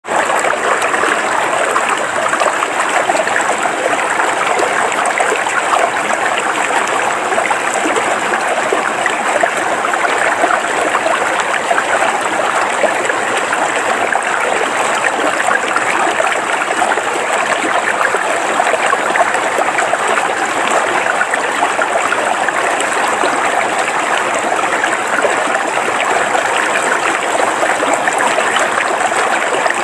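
River water flowing over rocks, a steady babbling and splashing rush with no break.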